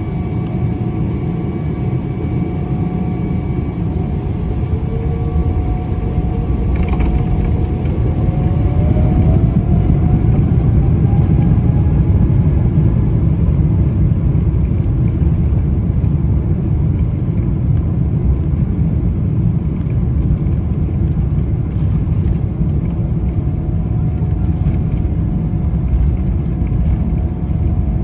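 Boeing 777-300ER's GE90-115B jet engines spooling up for takeoff: a loud, steady rumble with a whine that rises in pitch over several seconds, then levels off.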